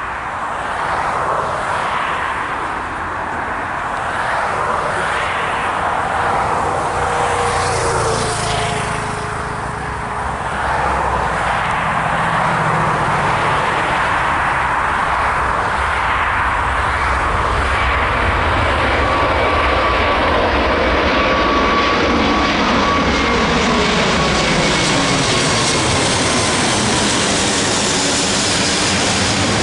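Airbus A380's four jet engines at take-off thrust: a loud, steady roar that grows louder and brighter over the last third, with faint whining tones sliding in pitch.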